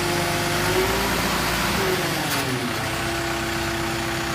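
REED A40HP concrete pump's engine running with the pump switched off, its pitch rising, holding, dipping about two seconds in and rising again as the engine speed changes.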